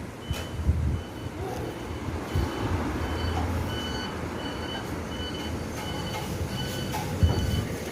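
Electronic beeper sounding short, high beeps at one pitch, about two a second, over a steady low rumble.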